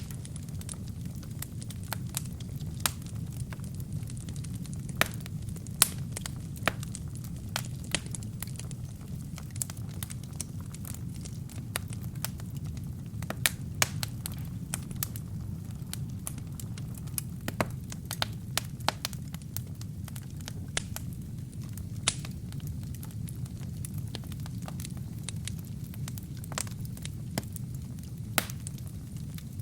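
Wood fire with burning kindling: a steady low rumble of flames under frequent irregular crackles and occasional louder sharp pops.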